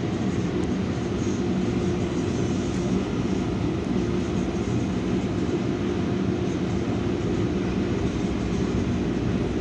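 Steady rumble of a Metrolink commuter train rolling along the track, heard from inside the passenger coach, with a low steady hum running under it.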